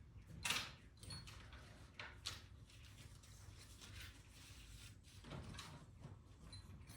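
Intermittent clatter and clicks of hand tools being handled while a drawer or tool case is opened to fetch another set of hex keys. The loudest rattle comes about half a second in.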